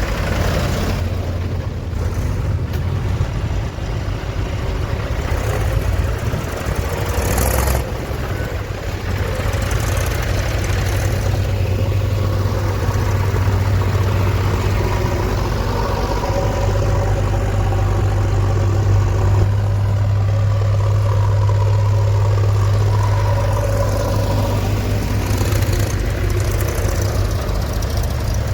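Diesel engine running steadily under load, a continuous low drone that grows louder and more even from about twelve seconds in.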